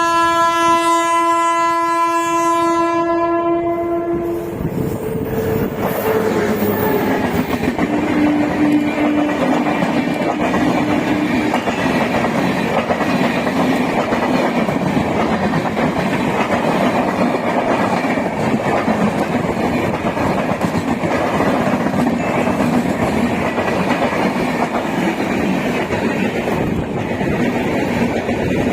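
Indian Railways express train running through a station at speed. It opens with a long horn blast lasting about four and a half seconds, followed by two fainter, shorter tones. After that comes the steady rumble and clatter of the coaches over the rails.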